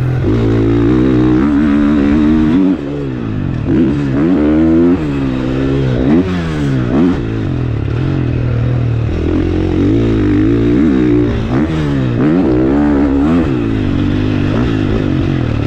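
A 450cc four-stroke motocross bike being ridden on a track, its engine revving up and falling back again and again.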